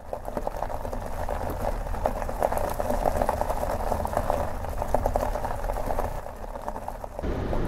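Car driving: a steady low engine and tyre rumble with a rapid crackle over it, turning deeper and fuller about seven seconds in.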